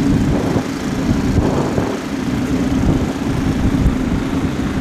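Drag-racing motorcycle engine running loudly at a steady speed, a constant low rumble.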